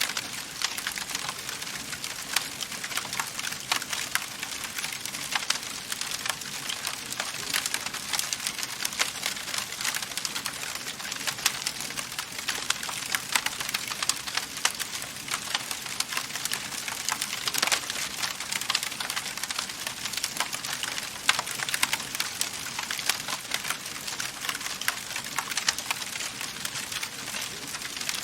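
Wood fire crackling in a fireplace: a steady hiss with many quick, irregular sharp pops and snaps.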